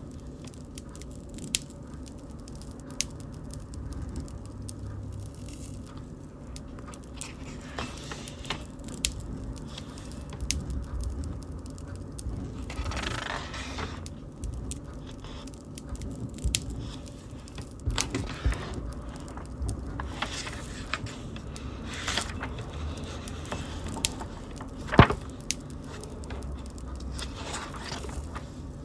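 Wood bonfire crackling, with scattered sharp pops and a couple of brief hissing flare-ups; one pop near the end stands out as the loudest.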